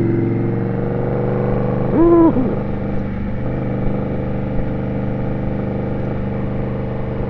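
Indian Scout's V-twin engine running steadily in traffic, with a short pitched sound about two seconds in.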